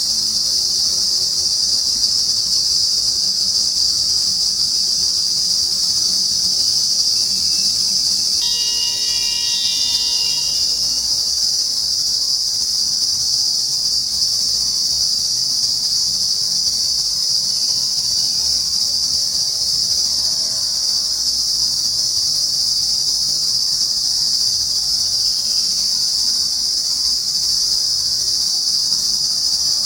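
A steady, high-pitched drone of insects calling from trees, unbroken throughout. About eight seconds in, a separate pitched tone sounds for about two seconds over it.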